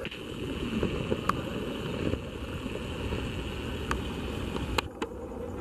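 Steady rushing rumble of an approaching electric multiple unit (EMU) local train coming along the track, with a thin steady high ringing that stops about five seconds in and a few faint clicks.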